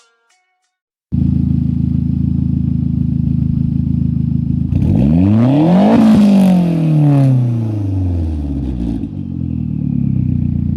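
Mitsubishi Lancer Ralliart's 4B11T 2.0 turbo four-cylinder exhaust note at idle. A little over halfway through it is revved once, rising quickly and then falling slowly back to a steady idle.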